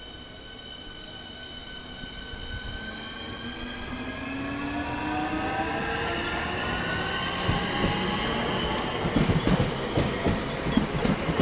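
Electric multiple-unit train, a Class 465 Networker, approaching and growing steadily louder. Its traction motors give a whine of several tones that shifts in pitch. From about seven seconds in, the wheels add a run of clacks as they pass over rail joints.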